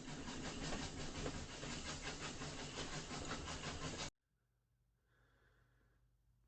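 A train running, with a quick, even rhythmic beat over hiss, cut off abruptly about four seconds in; faint near silence follows.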